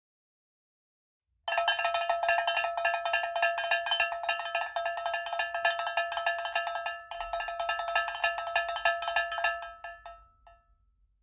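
A ringing metal object struck rapidly and repeatedly, a clanging, bell-like jangle that starts suddenly, dips briefly after about five seconds, then fades out.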